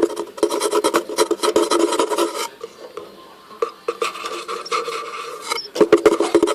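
Budgerigars chattering in a rapid, raspy stream of clicks and warbles. It comes in bursts, with a lull around the middle.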